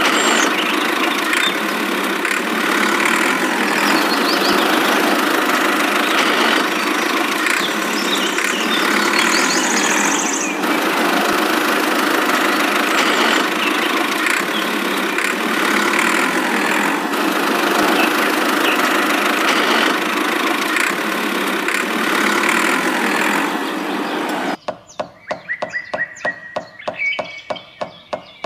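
A motor or engine running steadily. About 24 seconds in it stops sharply and a rapid, regular ticking follows, about three or four ticks a second.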